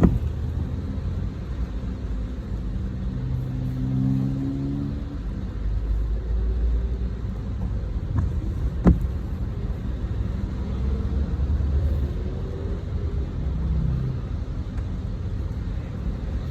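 Car running with a steady low rumble, its engine note rising slightly a few seconds in and again later on, with a single sharp click about nine seconds in.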